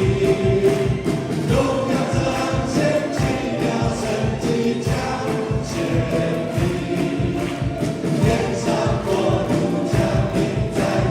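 Live worship band music with several voices singing together over a steady beat.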